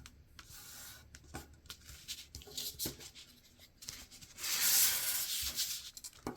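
Sheet of paper being folded, with light crinkles and small taps, then a longer firm rubbing from a little past halfway for about two seconds as the fold is pressed sharp along its length.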